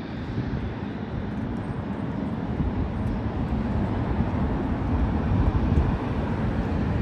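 Jet airliner noise: a steady, low rumble that slowly grows louder.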